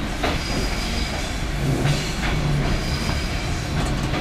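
Aeroexpress electric train rolling slowly through the station tracks, heard from inside the carriage: a steady running rumble with a few sharp wheel clacks over rail joints and points, and a faint high wheel squeal at times.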